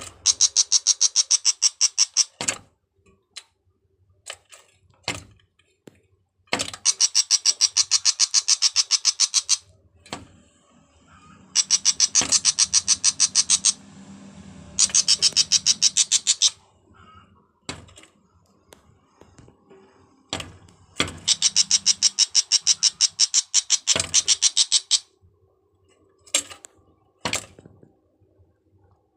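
A bird's harsh, rapid chattering call of about ten clicks a second, in bursts of two to three seconds repeated five or six times, with single sharp clicks in between.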